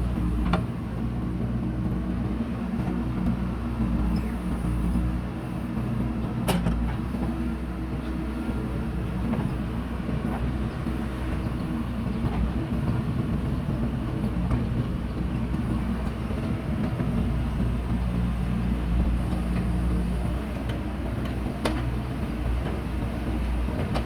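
Diesel engine of heavy earthmoving machinery running steadily under load, with a few sharp knocks, about six seconds in and again near the end.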